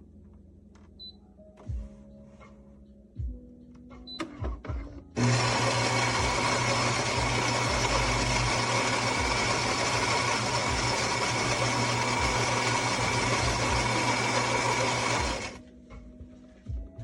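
Philips 3200 Series fully automatic espresso machine running, loud and steady for about ten seconds before cutting off suddenly, after a few light clicks and knocks.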